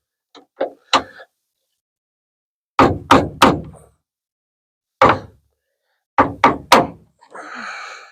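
Hammer tapping a metal window-channel piece inside a 1950 Ford F1 truck door to persuade it back into line: about ten sharp knocks, mostly in quick groups of three, with a short rougher noise near the end.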